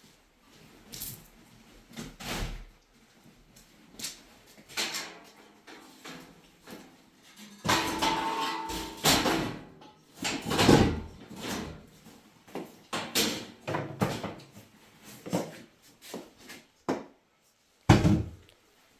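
Irregular knocks and clattering, one every second or two, with a longer, denser clatter about eight to eleven seconds in.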